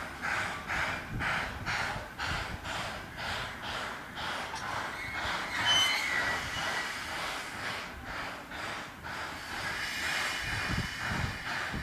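C11 steam tank locomotive moving slowly, its exhaust chuffing at about two beats a second, with a short high squeal from the wheels or rails near the middle.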